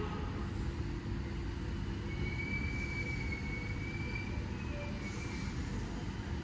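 Metro X'Trapolis electric train pulling into the platform with a steady low rumble. About two seconds in, a faint high squeal sounds for a couple of seconds as it slows.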